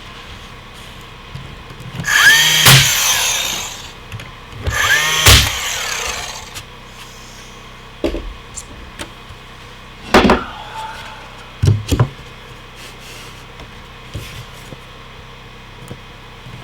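Handheld power tool run twice in short bursts of about two seconds each, working wood, followed by a few sharp knocks of wood pieces.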